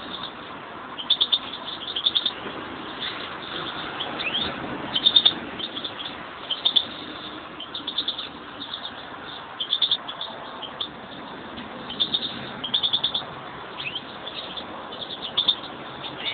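European greenfinches chirping: short clusters of quick high chirps repeating every second or two.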